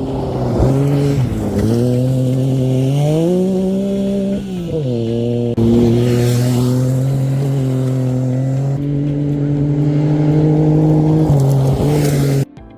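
Yamaha YXZ1000R side-by-side's three-cylinder engine running under load, its revs dropping and rising several times and then holding fairly steady. It cuts off abruptly near the end.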